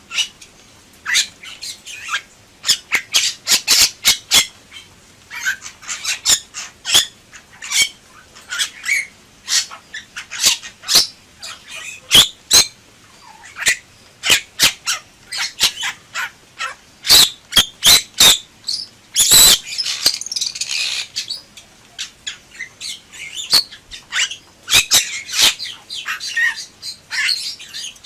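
Bali myna calling in a long, busy run of harsh squawks, sharp clicking notes and short high whistles, with one louder, longer harsh call about two-thirds of the way through.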